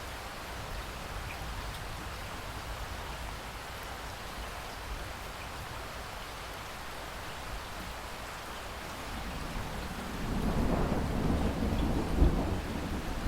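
Steady rainfall, then a roll of thunder rumbling in about ten seconds in, growing louder with a sharp crack near the end.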